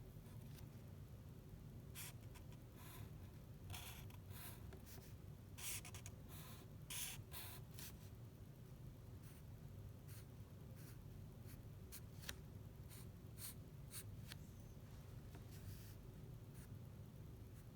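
Faint scratching of a drawing tool on paper: a quick run of strokes in the first half, then sparser, shorter strokes.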